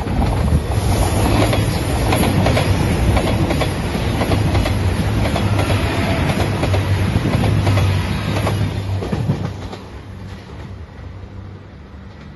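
A JR Shikoku 2700 series diesel express train passes close by at speed, its engines running under a steady din and its wheels clattering over the rail joints. The noise drops away after about nine and a half seconds as the last car goes by.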